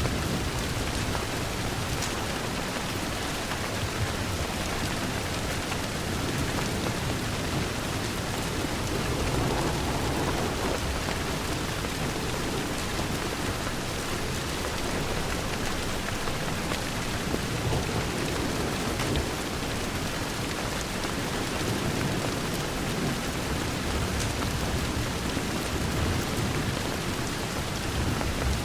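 Steady rain on a window: an even, unbroken hiss with a low, uneven rumble underneath and a few faint clicks.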